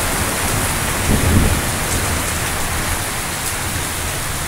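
Heavy rain falling steadily in a thunderstorm, a dense even hiss, with a brief low rumble about a second in.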